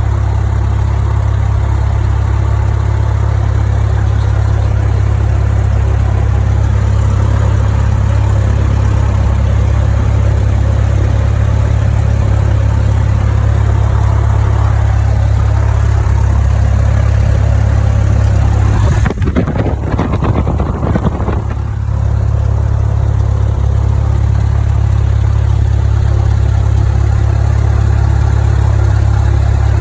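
Cessna 172M's four-cylinder Lycoming engine and propeller running steadily during a pre-takeoff engine run-up. About two-thirds of the way through, the sound wavers and dips for a few seconds, then steadies again.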